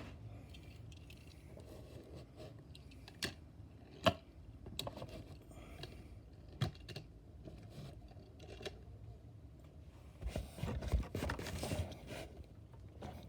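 Handling of a die-cast toy car in its plastic blister pack and card: scattered sharp clicks and taps, then a longer crinkling rustle about ten seconds in.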